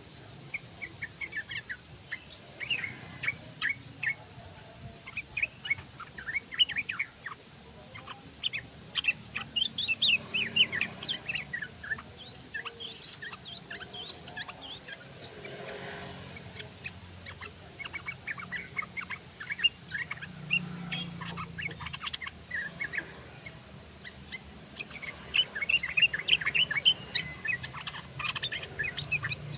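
Yellow-vented bulbul (trucukan) singing ropel: long runs of rapid, bubbling chirps and short whistled notes, in bursts with brief pauses between them.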